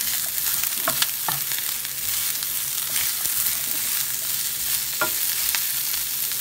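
Sliced bok choy and peppers sizzling in hot oil in a frying pan while a wooden spatula stirs them, with a steady hiss and a few brief knocks.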